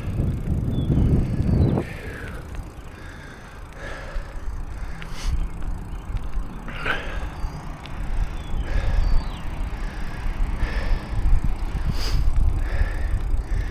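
Riding a bicycle, heard from a mic on the rider: a low rumble of wind and road, loudest for the first two seconds, with faint short chirps and an occasional click.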